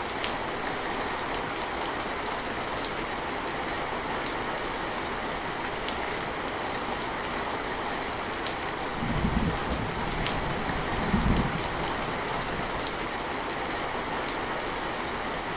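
Steady rain falling, with scattered single drops ticking close by. Two brief low rumbles come a little past halfway, the louder of the two just after the first.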